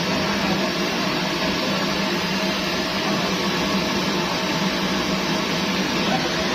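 Kerosene pressure stove (primus) burner running with a steady, even rushing noise and a low hum underneath.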